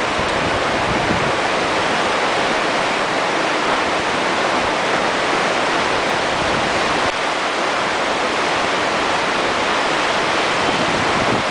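Steady rushing water, an even, unbroken hiss without the rise and fall of breaking waves.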